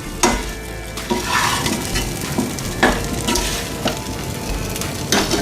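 Chicken leg pieces sizzling in oil in a kadai while being stirred and coated in ground masala, with the utensil scraping and knocking against the pan several times.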